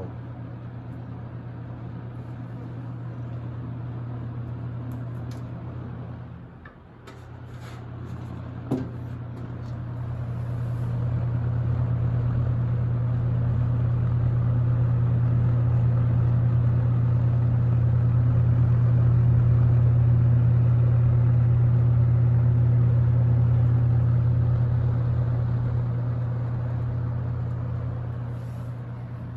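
Early-1990s Toastmaster model 4437 box fan running with a steady low motor hum. About seven seconds in the sound briefly dips and a sharp click follows, then the hum swells louder and eases off again near the end.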